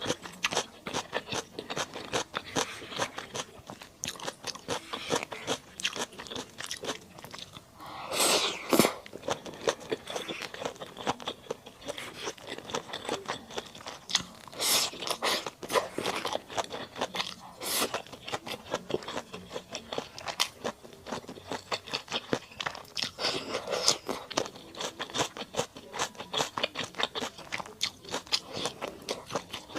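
Close-up chewing and crunching while eating mala duck: a dense run of quick crunches and wet clicks from the mouth, with a louder rush of noise about eight seconds in and two briefer ones later.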